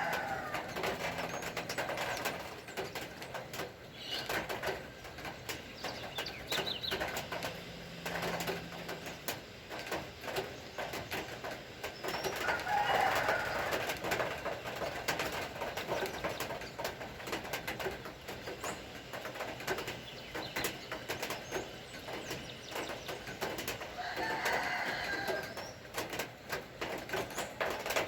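Rain pattering steadily, with birds calling over it now and then; the loudest call comes about halfway through.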